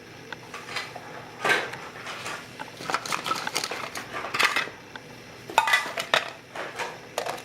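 Food items and containers being handled and set down, with irregular light clattering, knocks and rustling.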